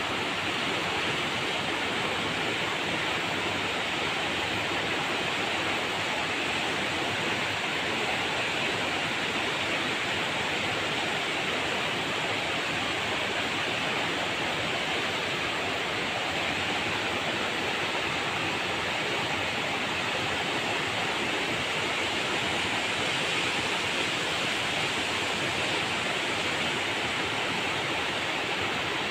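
River water rushing and splashing over rocks in a steady, unbroken rush.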